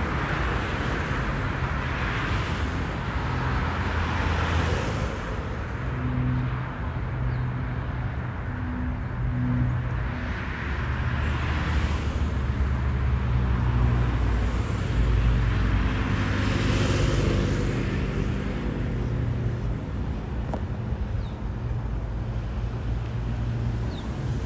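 Jet airliner engines rumbling close by, a steady low drone that swells and eases over several seconds.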